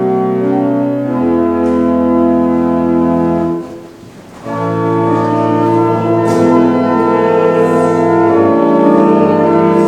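Church organ playing held hymn chords, pausing briefly about four seconds in before the next phrase.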